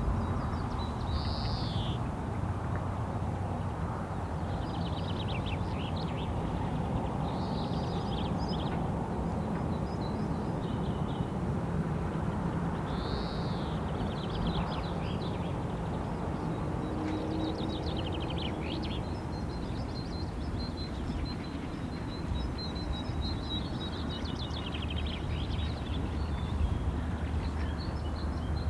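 Wild songbirds calling on and off, short high arching notes and rapid trills, over a steady low rumble.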